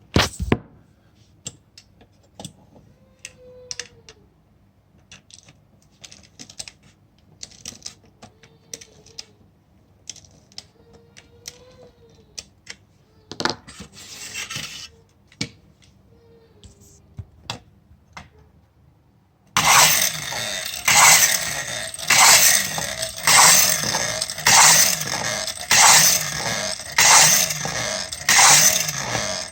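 Arnold clockwork tin motorcycle toy: scattered light metallic clicks and handling, then about two-thirds of the way in the spring-driven motorcycle starts running with a loud, continuous clockwork whirr and tin rattle that swells and fades about once a second.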